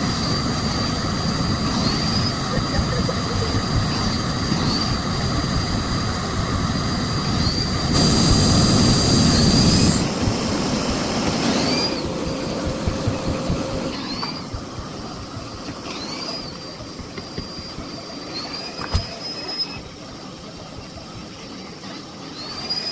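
Miele Blizzard CX1 bagless cylinder vacuum cleaner running with its turbo brush on carpeted stairs, its high motor whine rising in pitch again and again as the nozzle works each step. The audio is sped up.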